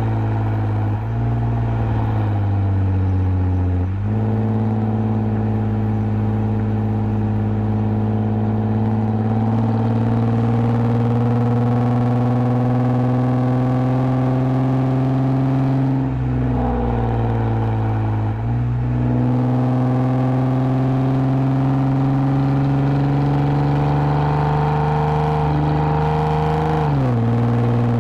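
2010 Lexus IS250 AWD's 2.5-litre V6 running through an aftermarket full exhaust with valved mufflers, engine pitch climbing slowly under light acceleration. The pitch dips and comes back up about two-thirds of the way through, and drops sharply near the end as the automatic gearbox shifts.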